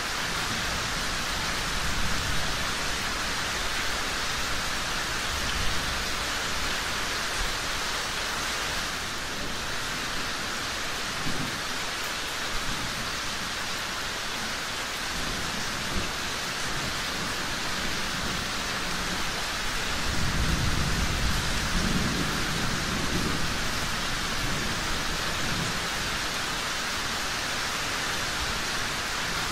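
Steady rain falling, with a low roll of thunder rumbling about two-thirds of the way through.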